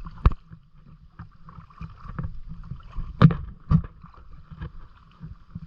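A kayak being paddled, with water noise and several sharp knocks, two of the loudest a little over three seconds in.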